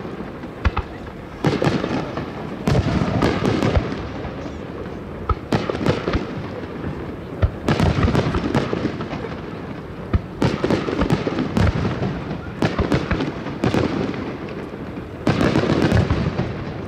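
Aerial firework shells bursting one after another, a sharp boom every second or two, with stretches of dense crackling after some bursts.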